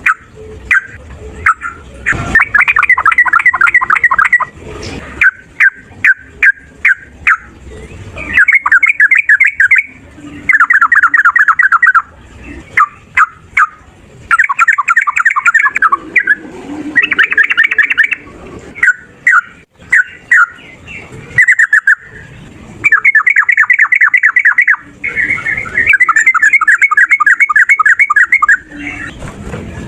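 Sooty-headed bulbul (trucukan) song: loud rapid trilled runs of quickly repeated notes, each lasting a couple of seconds, broken by short single chirps in between.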